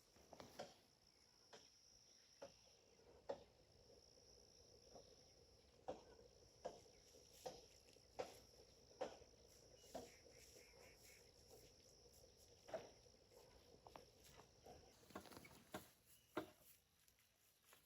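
Near silence, with faint scattered taps or knocks about once a second over a thin, steady high-pitched tone that stops a few seconds before the end.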